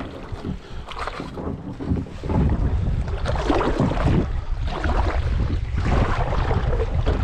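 Kayak paddle strokes splashing and dipping in creek water, irregular and getting louder about two seconds in, with wind rumbling on the microphone.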